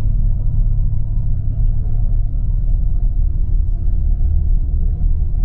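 Steady low rumble of a tour coach driving on the road, heard from inside the cabin: engine drone and road noise, with a faint steady hum.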